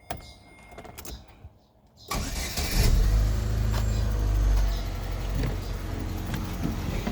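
Chevrolet Utility 1.4 four-cylinder engine starting about two seconds in: it cranks briefly, catches, and settles into a steady idle. The idle is smooth, with no shakiness, a sign that the earlier rough idle has been cured.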